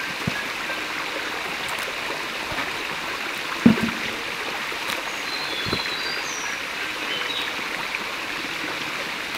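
Stream water running steadily, with a sharp thump a little under four seconds in and a softer one near six seconds. A few faint high chirps come through around the middle.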